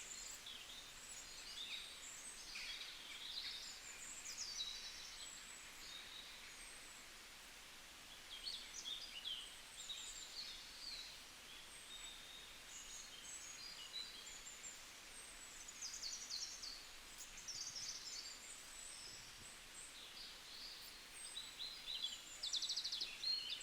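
Many birds chirping and calling at once, faint, short high calls overlapping throughout, with a fast trill near the end.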